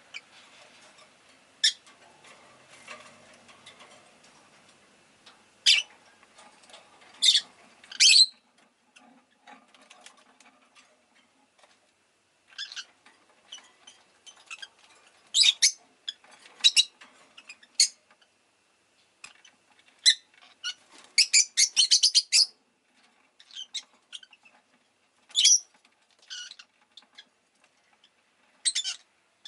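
Rosy-faced lovebird giving short, sharp, high chirps at irregular intervals, with a quick run of chirps about two-thirds of the way through.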